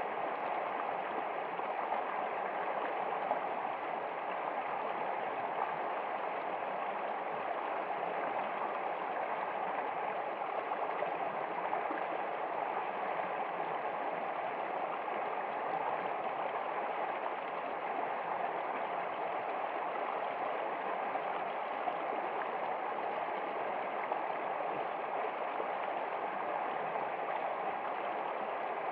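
Running water of a stream flowing steadily and evenly, without a break or change.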